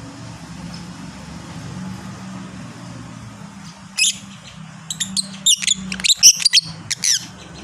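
Lovebird calling in shrill, rapid chirps that glide in pitch, starting about four seconds in and coming thickest near the end, over a steady low hum.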